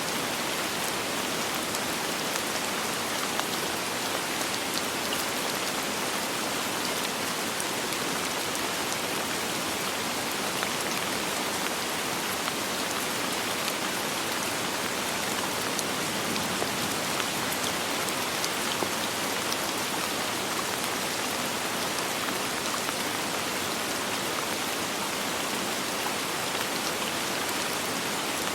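Steady, even rain falling on a surface, a continuous hiss scattered with fine drop ticks, with no thunder.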